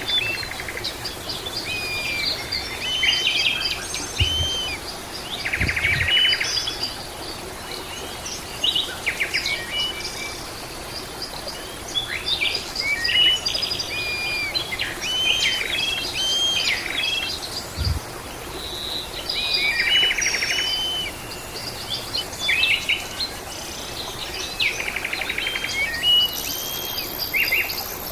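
Several wild birds calling and singing at once: a busy mix of short chirps and whistled notes, with a buzzy trill that recurs every several seconds.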